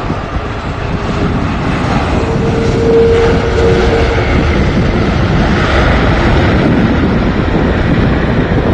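Airbus A330 jet engines on landing, a rushing noise that swells over a few seconds, with a brief steady whine about two seconds in. Wind buffets the microphone throughout.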